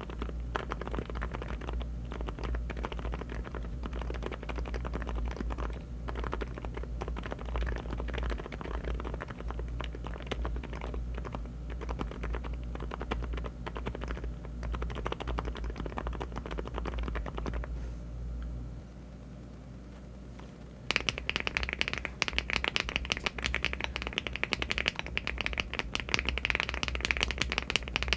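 Typing on a LEOBOG Hi75 aluminium mechanical keyboard with Cherry-profile keycaps. For the first part the keyboard has HMX Silent Sakura silent switches, and the keystrokes are soft and muffled. After a short pause about 19 seconds in, typing resumes on HMX Hyacinth V2U switches, clearly louder and clickier.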